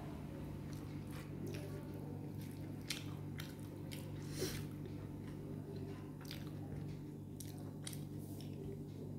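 Close-up eating sounds: a person chewing a mouthful of rice and dal, with irregular wet mouth clicks and smacks. A steady low hum runs underneath.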